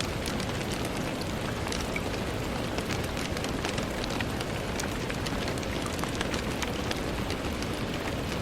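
Steady rain against a window: a continuous wash of rainfall with many individual drops ticking sharply throughout.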